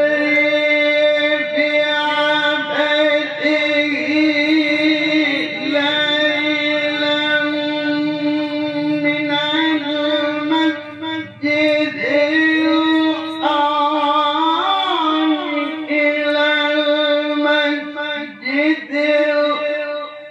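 A male Quran reciter chanting in the melodic mujawwad tilawah style, holding long, high notes with ornamented turns and pausing briefly for breath between phrases.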